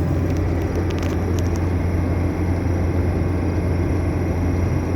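Truck cab heater fan running on its second speed with a thin, steady, high whistle over the loud, steady drone of the engine and road inside the cab. A few light clicks come about a second in.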